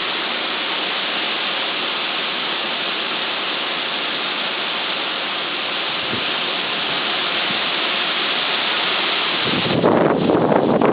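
Typhoon winds blowing, a steady rushing hiss. Near the end a stronger gust buffets the microphone.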